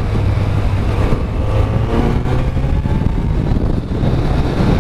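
Kawasaki Z900's inline-four engine running under way, its steady low drone nearly buried under heavy wind noise on the microphone.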